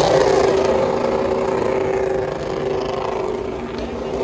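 A motor vehicle's engine running at steady, high revs, one held pitch over a noisy background.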